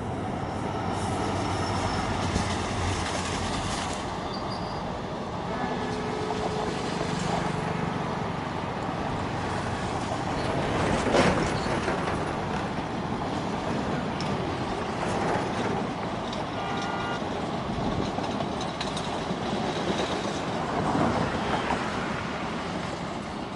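Passenger coaches of a long express train rolling past: a steady noise of steel wheels running on the rails, swelling briefly about halfway through.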